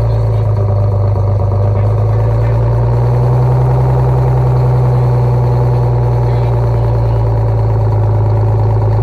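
Rear-mounted diesel engine of a 1989 Crown Super Coach school bus idling steadily with a deep, even drone, freshly started and still cold.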